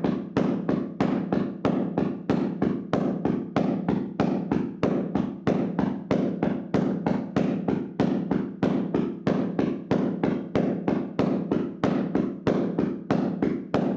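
Hands slapping and tapping rapidly on a person's body in a vigorous percussive massage: a steady, even rhythm of dull thudding slaps, about four a second.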